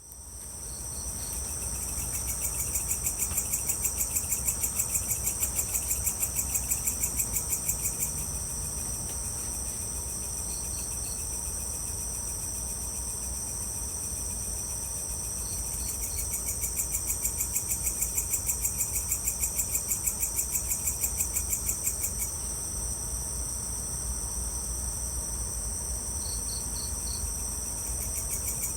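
Crickets and other night insects chirping: a steady high trill that pulses rapidly, about four pulses a second, for several seconds at a time, with short runs of three or four quick chirps every few seconds. A low steady rumble runs underneath.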